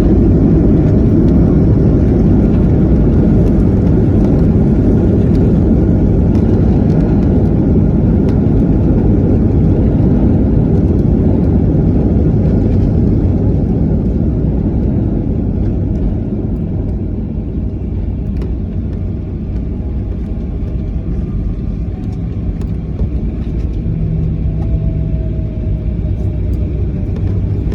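Boeing 737 cabin noise on the ground after landing: a loud, steady low rumble from the engines and rolling airframe that eases off about halfway through as the jet slows.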